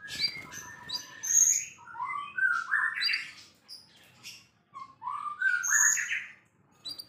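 White-rumped shama singing a varied song of clear whistles mixed with harsher notes, in phrases a second or two long with short pauses between.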